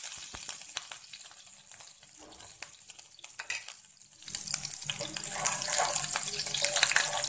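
Chopped green chillies sizzling and crackling in hot mustard oil in a pan. About four seconds in the sizzle grows louder, and a wooden spatula stirs them.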